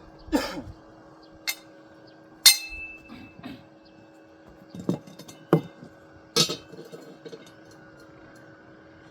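A string of sharp clinks and knocks from hard parts being handled and set down, irregularly spaced. The loudest comes about two and a half seconds in and rings briefly. The knocks stop about two seconds before the end.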